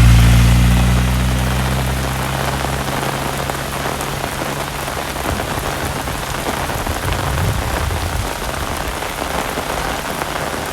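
Heavy rain falling steadily, a dense even hiss of drops on surfaces. A low hum sits under it in the first few seconds and fades out about halfway through.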